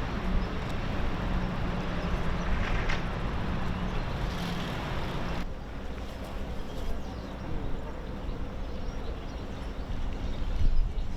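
Outdoor background noise with a low rumble and a steady low hum, changing abruptly about five seconds in to a thinner, quieter rumble.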